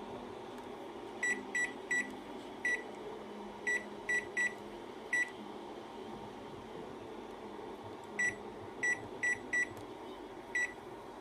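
Daewoo KOG-6C2BS microwave's touch-panel confirmation beeper giving short, same-pitched beeps as buttons are pressed: eight beeps in the first half, a pause, then five more. Each beep marks a press the worn touch panel has registered. A low steady hum runs underneath.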